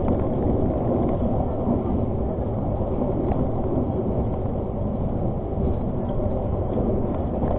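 Argo Parahyangan passenger train running at speed, heard from inside the carriage: a steady, even running noise of wheels on track and the moving coach, with no clear rhythm of rail joints.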